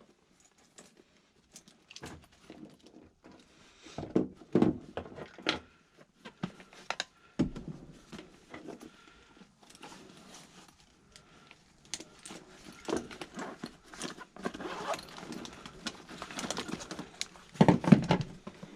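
Irregular handling noise of someone working on the unit: clicks, rattles and rustling, with a few louder clunks about four seconds in and again near the end.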